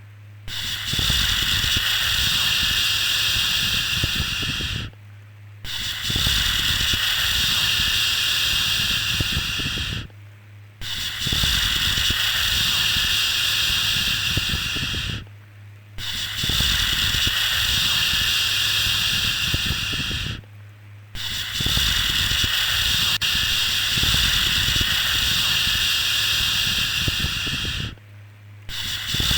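Repeated long 'shhh' shushing, each held about four to five seconds (one runs about seven) with a brief pause between, five pauses in all.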